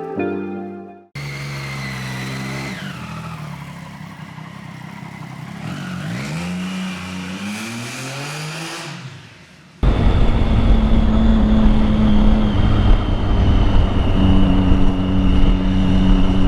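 Motorcycle engine revving, its pitch dropping and then climbing again over several seconds; about ten seconds in it cuts abruptly to a loud, steady on-board engine sound with heavy wind rush.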